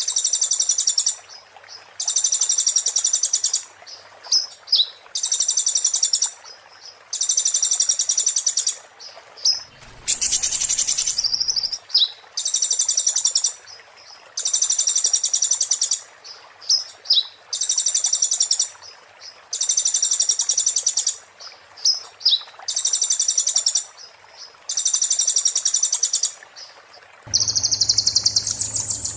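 Konin songbird singing the fast, high, rattling 'muntah beling' song, one phrase of about a second repeated every couple of seconds. A short burst of noise comes about ten seconds in, and near the end the song changes to a different, steadier high phrase over a low hum.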